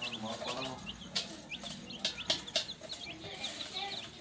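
Baby chicks peeping: many short, high chirps, each dropping in pitch, overlapping in a rapid stream. Lower clucking comes in near the start, and there are a few sharp clicks.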